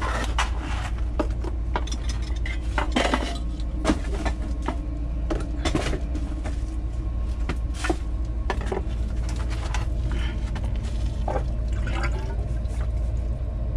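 Scattered knocks and clinks of PVC pipe pieces and fittings being handled and test-fitted, over a steady low hum.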